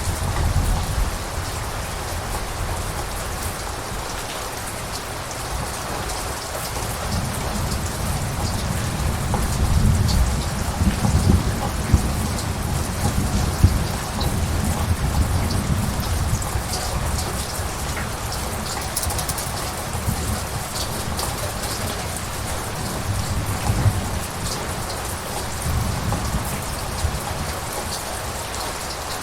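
Steady rain falling, with scattered drops ticking, under low rolling thunder that swells and fades several times.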